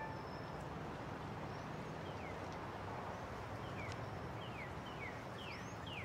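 Outdoor ambience: a steady background hiss with birds giving short chirps that fall in pitch, repeated many times from about two seconds in.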